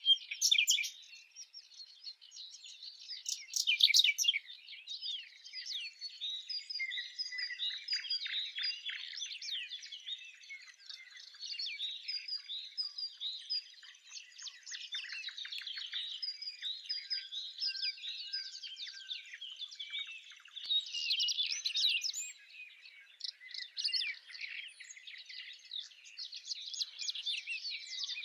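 Birds chirping and twittering, many short high-pitched calls overlapping without a break, louder about four seconds in and again around twenty-one seconds.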